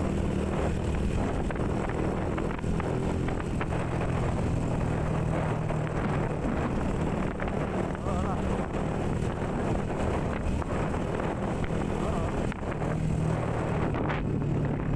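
A small 125 cc motorcycle engine running steadily under way, with wind buffeting the microphone. The engine note rises briefly near the end.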